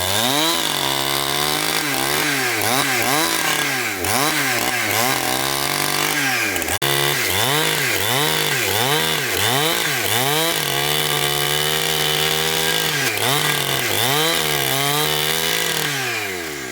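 Chainsaw engine cutting wood, its pitch rising and falling over and over, about once a second, as the throttle is worked. It winds down near the end.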